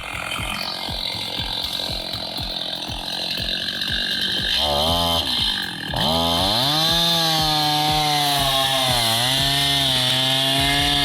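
Two-stroke chainsaw engine: a rough rasping at first, then it revs up about halfway in and runs at high, steady revs, its pitch dipping briefly late on.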